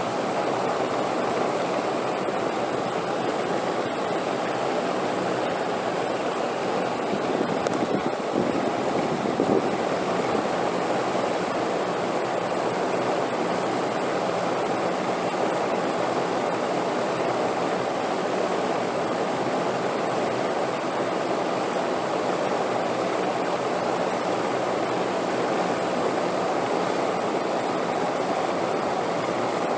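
Steady rushing wind noise, with a few slight gusts swelling about eight to ten seconds in.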